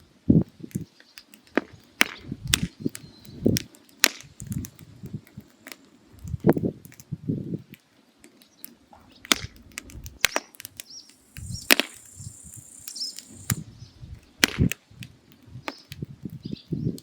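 Firewood burning in a mangal down to coals for shashlik, crackling with irregular sharp snaps and pops, some with a deeper thud, and a brief high hiss around the middle.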